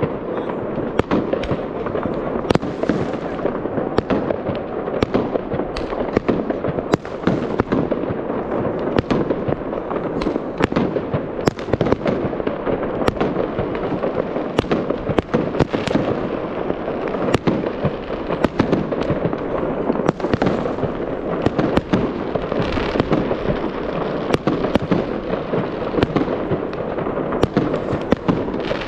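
Fireworks going off without pause: a dense crackling with frequent sharp bangs throughout.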